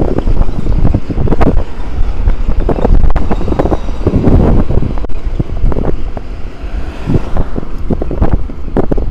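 Wind buffeting the microphone on a moving electric scooter: a loud, uneven rumble that swells and drops in gusts.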